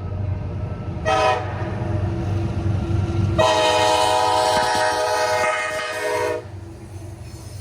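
A freight locomotive's multi-chime air horn sounds a short blast about a second in, then a long blast of about three seconds, over the low rumble of the train. The pattern fits the close of the standard grade-crossing signal.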